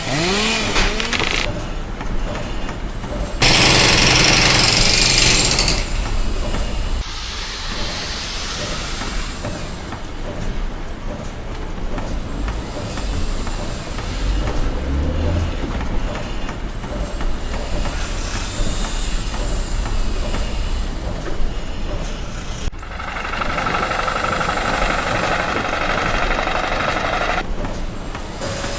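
Construction machinery noise in several abrupt segments, with a loud hissing stretch of about two seconds a few seconds in.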